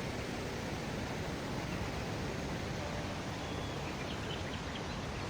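Steady rushing outdoor noise with no clear single source, and a few faint bird chirps in the second half.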